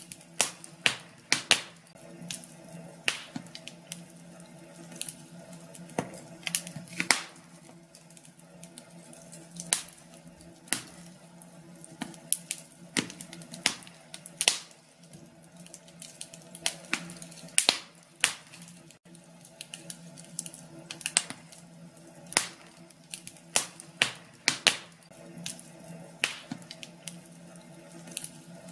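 Wood fire in a fireplace crackling, with sharp pops and snaps at irregular intervals, several a second, over a soft steady background.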